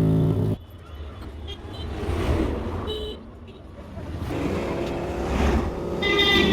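Street traffic noise with short horn toots. A steady hum cuts off sharply about half a second in.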